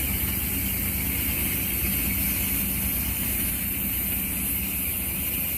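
An engine idling steadily, a low even hum with a constant hiss above it.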